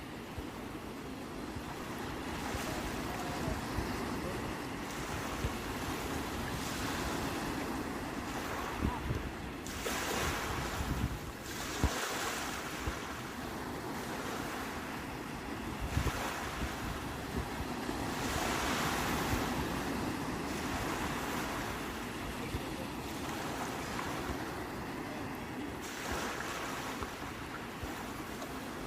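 Sea waves washing onto the shore, the surf swelling and falling every several seconds, with wind buffeting the microphone.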